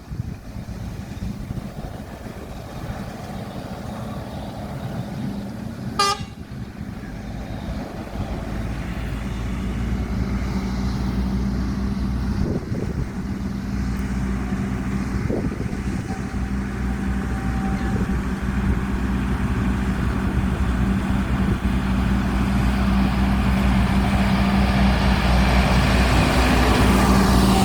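Diesel cane-train locomotive running with a steady low engine hum, growing louder as it approaches. A short sharp blip about six seconds in.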